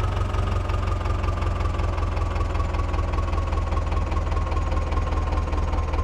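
Sonalika tractor's diesel engine running steadily with a rapid low throb, and a thin whine that slowly falls in pitch.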